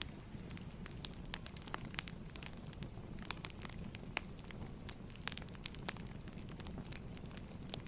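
Fireplace fire crackling: a steady low rumble of burning with frequent irregular sharp pops and snaps.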